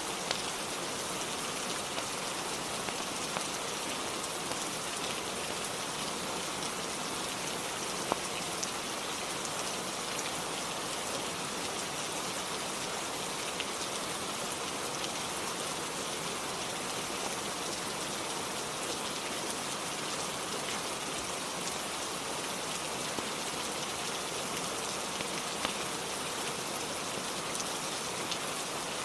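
Steady rainfall, an even hiss of rain with scattered sharp ticks of single drops.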